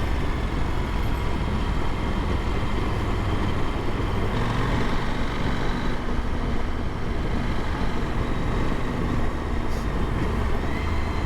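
KTM adventure motorcycle riding along at steady speed: a constant engine drone under heavy wind rush on the rider's microphone, with a slight rise in engine pitch near the end.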